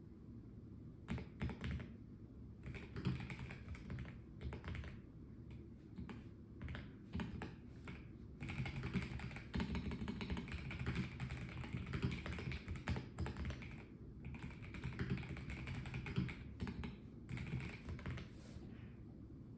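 Typing on a Melgeek Mojo84 mechanical keyboard with a plastic case: rapid keystroke clicks in bursts, with short pauses between them and a long fast run in the middle.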